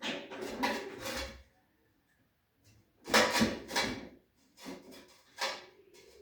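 Clusters of knocks, clatter and scraping, like hard parts being handled and set down, in three bouts with quiet gaps between.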